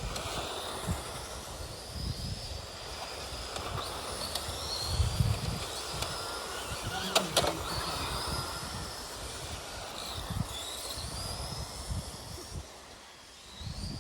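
Electric motors of radio-controlled Tamiya race trucks whining, the pitch sliding up again and again as they accelerate. Wind rumble on the microphone, and one sharp click about seven seconds in.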